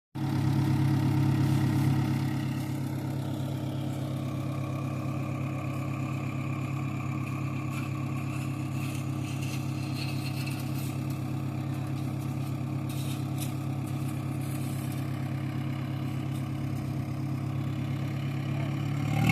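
Mahindra 415 DI tractor's diesel engine running steadily, a little louder for the first two seconds and then settling to an even speed.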